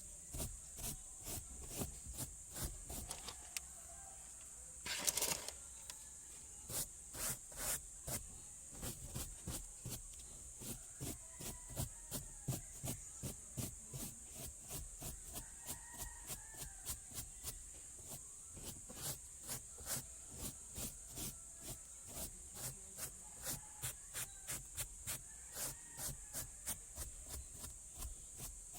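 Brush or cloth scrubbing by hand in short strokes, roughly two a second, over a steady high hiss; one stroke about five seconds in is louder than the rest.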